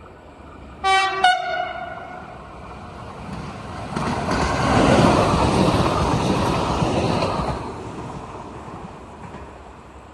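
A regional train gives two short horn blasts in quick succession, then passes by with a rumble that swells to its loudest about five seconds in and dies away a few seconds later.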